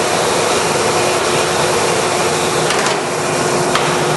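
American Pacemaker heavy-duty engine lathe running under power: a steady mechanical whir from its spindle drive and gearing with a constant hum, and a couple of faint ticks near the end.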